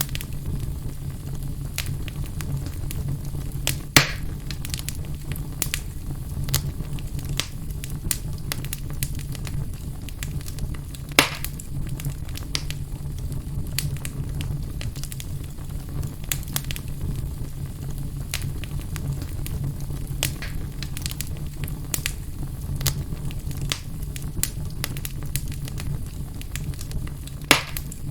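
Fire burning in a fireplace: a steady low rumble under constant small crackles, with three louder pops scattered through.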